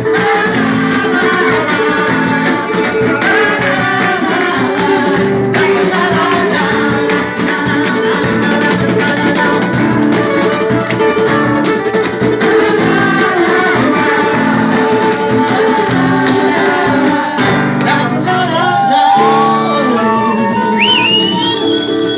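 Live acoustic guitar music with singing, a Brazilian love song played bar-style. The song runs on through a stretch without sung words, and near the end high sliding notes come in over the guitar.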